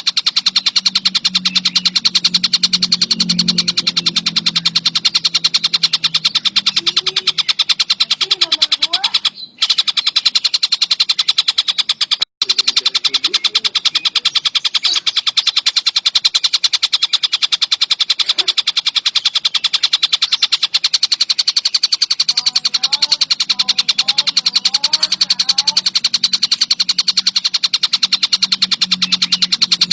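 Tengkek buto (collared kingfisher) giving a loud, fast, unbroken high-pitched trill. The sound cuts out briefly twice, about nine and twelve seconds in, as a looped training recording does.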